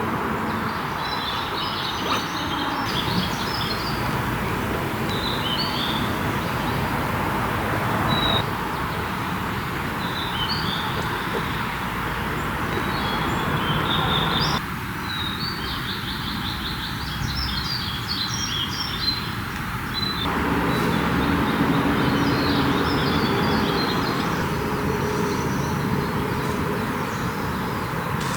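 Small birds chirping and singing in short repeated phrases over a steady background hiss of outdoor noise, which shifts abruptly a few times.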